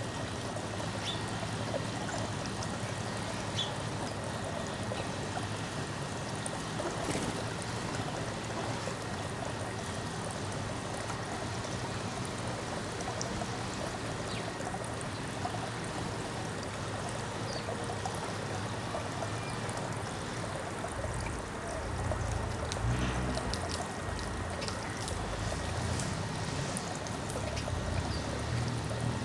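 Steady outdoor rushing noise like trickling water, with a low rumble swelling in about two-thirds of the way through.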